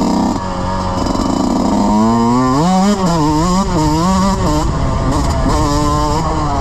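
Dirt bike engine running under changing throttle: its pitch climbs about two seconds in, then swings up and down quickly through the middle before settling.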